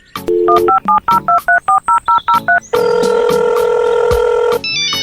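Telephone call sounds: a brief dial tone, then a quick run of about a dozen touch-tone keypad beeps, a steady tone for about two seconds, and a ringtone melody starting near the end.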